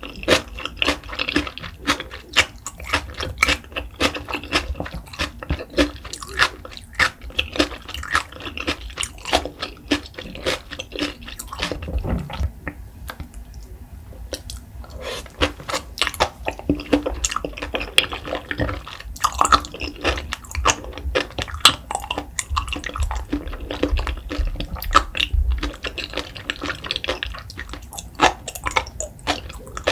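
Close-miked wet chewing of raw salmon sashimi with sea grapes: dense, irregular smacking and clicking mouth sounds. A quieter gap of a few seconds around the middle, while the next bite is lifted, then the chewing starts again.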